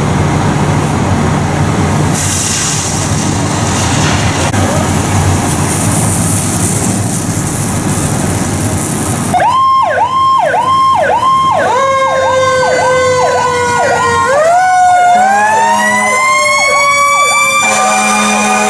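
Fire engines running with a steady rumble and hiss, then about halfway in their sirens start: a fast yelp, joined by a slower wail that falls and then rises again, several sirens sounding together.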